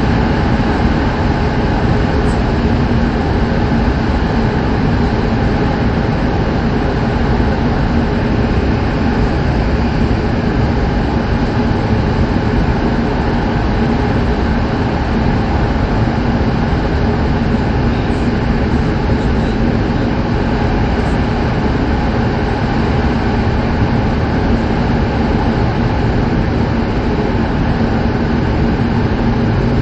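Cabin running noise of an E7 series Shinkansen train under way: a steady rumble with a constant low hum.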